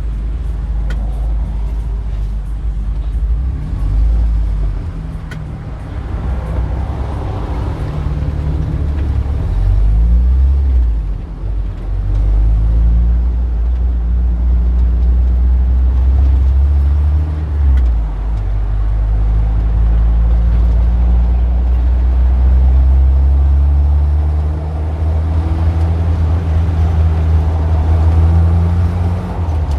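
Street traffic: engines of passing cars and other road vehicles running, a heavy low rumble whose pitch rises and falls several times as vehicles pull away and go by.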